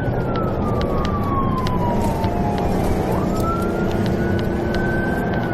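Police car siren wailing, its pitch falling slowly, then rising again about halfway through and starting to fall near the end, over steady engine and road noise.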